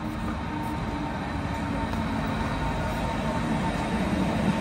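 Berlin S-Bahn electric train running into the station along the platform: a rumble with a steady motor hum that grows louder as the train comes close.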